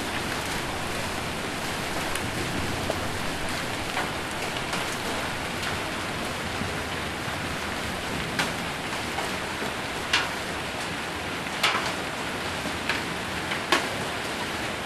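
Steady heavy rain with hail drumming on a roof, with scattered sharp single hits standing out, several of them louder in the second half.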